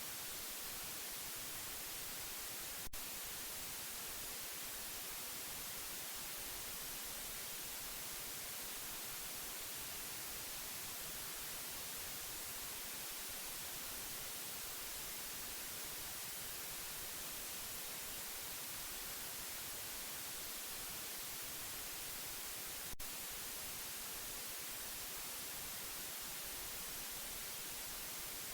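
Steady white noise, an even hiss strongest in the high frequencies, played to soothe a baby to sleep. Two faint clicks cut through it, one about three seconds in and another some twenty seconds later.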